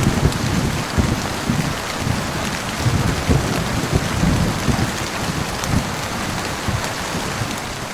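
Heavy rain falling steadily, with low thunder rumbling and rolling underneath.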